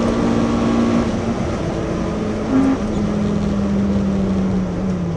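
Honda B18C 1.8-litre DOHC VTEC four-cylinder in a Civic EJ9, heard from inside the cabin, running hard under load with road and wind noise. The engine note eases lower about a second in and rises briefly in a short rev blip around halfway. It then settles to a steady, slightly lower pitch that dips and recovers near the end.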